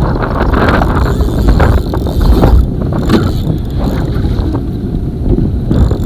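Wind buffeting the microphone: a loud, ragged low rumble, with a few short knocks scattered through it.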